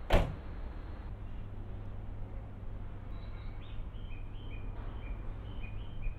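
A sharp click just at the start. Then the steady low hum of the FV-E991 hydrogen hybrid train approaching slowly. Short high chirps at two alternating pitches come in over the last three seconds.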